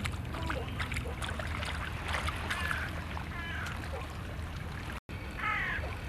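Sea water washing at the shore under a steady low rumble of wind, with scattered short bird calls over it. The sound breaks off for an instant about five seconds in.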